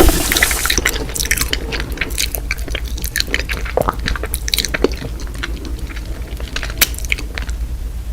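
Close-miked ASMR mouth sounds: chewing and crunching with wet squishes, made of many irregular crisp crackles and clicks.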